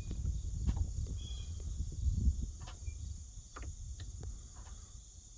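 Insects, such as crickets, trilling steadily, over a low uneven rumble that fades about halfway through, with several light clicks in the second half.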